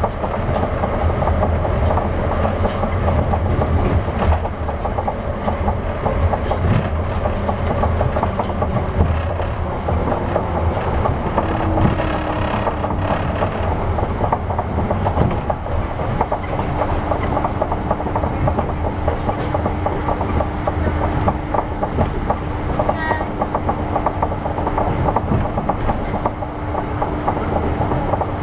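Running sound inside an Osaka Nanko Port Town Line 200 series car, a rubber-tyred automated guideway train, while it travels between stations. A steady low rumble carries frequent short clicks, and a steady hum joins about halfway through.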